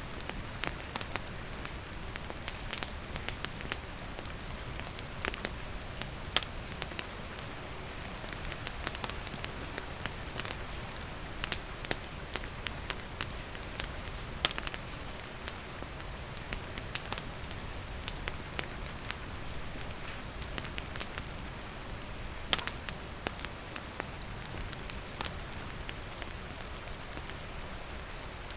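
Steady rainfall hissing, with a wood campfire crackling and popping in sharp, irregular snaps.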